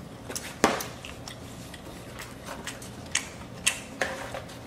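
Eating sounds close to the microphone: a scattering of sharp clicks and taps, the loudest about half a second in, from a utensil on a takeout container and the mouth while chewing.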